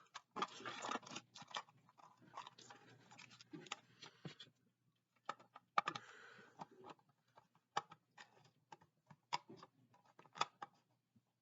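Faint, scattered clicks, taps and scraping of a model car's packaging being handled as the car is worked loose from its mount, with a short rustle a little past the middle.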